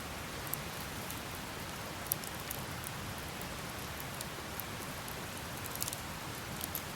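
Wood campfire burning: a steady hiss with scattered sharp crackles and pops, the loudest pop about two seconds in and a small run of crackles near the end.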